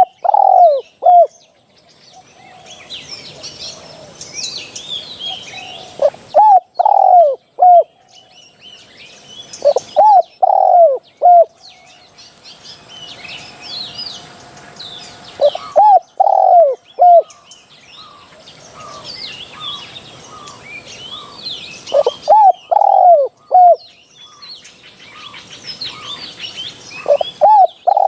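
Spotted dove cooing, a phrase of three or four short coos repeated every four to six seconds, from a decoy call recording. Fainter, higher chirps of small birds go on throughout.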